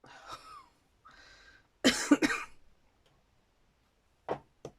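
A woman coughing: quieter throat sounds first, a loud fit of two or three coughs about two seconds in, then two short coughs near the end.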